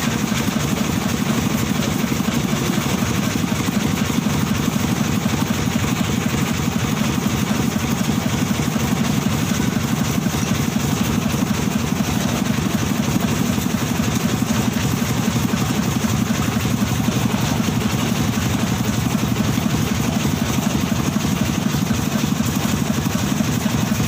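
An engine running steadily at a constant speed, with a fast, even throb.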